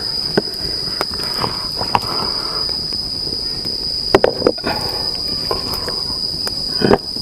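Steady high-pitched drone of insects, with scattered knocks and clatter from handling things close by, the loudest pair about four seconds in and another near the end.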